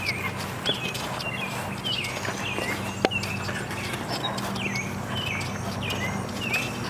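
A bird repeats a short falling chirp about twice a second over a steady low hum. A pick-mattock strikes into dirt a few times, the sharpest blow about three seconds in.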